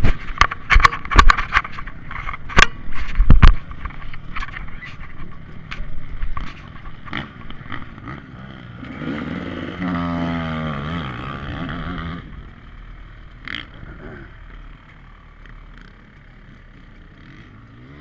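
Loud sharp knocks and clatter through the first few seconds, then a dirt bike's engine revs up and falls away as it goes by, about nine to twelve seconds in, leaving faint background.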